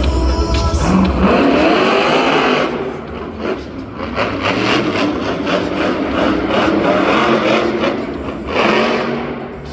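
Monster truck engine revving hard: its pitch climbs steeply at about a second in, then it runs loud and rough with short blips, and climbs again near the end.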